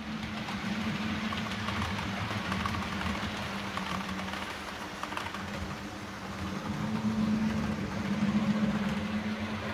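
Model railway train running on the layout's track: a steady hum with a continuous rolling rattle. It grows louder about seven seconds in.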